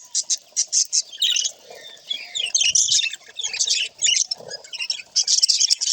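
Budgies (budgerigars) chirping and warbling. A run of quick high chirps turns into a busier, tangled chatter from about a second in, then back to rapid chirps near the end.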